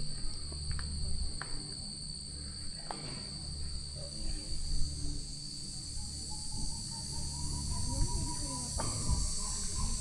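Steady chorus of insects, a continuous high-pitched trilling that holds on one pitch throughout.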